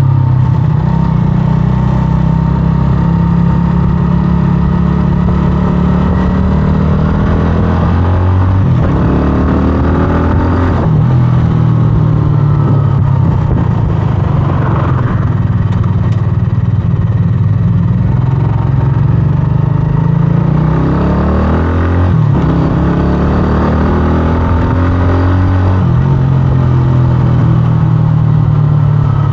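125cc scrambler motorcycle engine running under way, its revs rising and falling several times as the bike accelerates and eases off.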